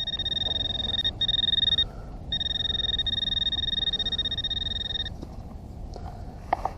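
Handheld metal-detecting pinpointer sounding a high, rapidly pulsing alert tone in three stretches, the last and longest about three seconds, as it reads a buried metal target.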